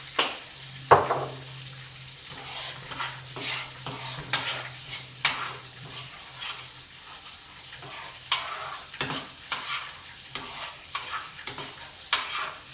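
A utensil stirring and scraping food in a sizzling frying pan, in irregular strokes. There is a sharp metal clink against the pan about a second in.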